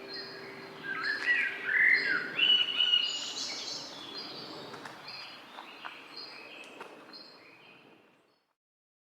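Songbirds singing: a short high chirp repeats about once a second, with a louder run of varied song in the first few seconds. The birdsong fades out near the end.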